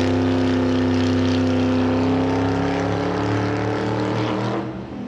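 Racing car engine running, its pitch falling slightly before it fades away near the end.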